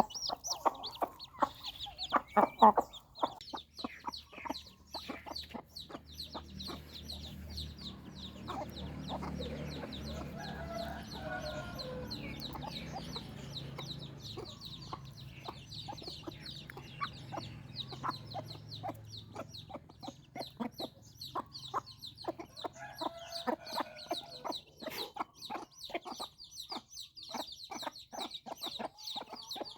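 Newly hatched chicks peeping constantly in short, high cheeps, with some lower clucking mixed in. A low hum runs under them through the middle.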